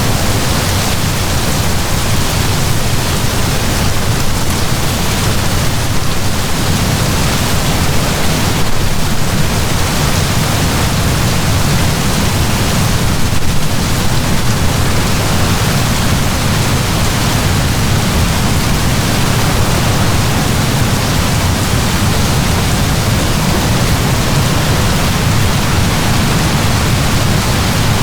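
Heavy rain pouring down in a steady, dense hiss with a deep low rumble beneath it.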